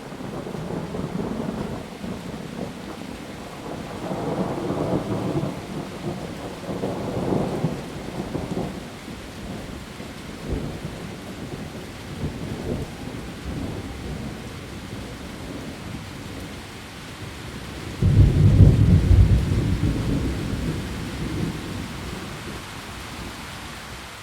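Heavy rain falling steadily, with rolling thunder rumbling through the first half. About eighteen seconds in, a sudden louder thunderclap breaks and rumbles away slowly.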